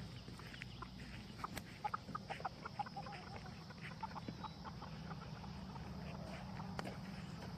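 Faint run of short, quick animal calls, most of them in the first half, over a low steady hum.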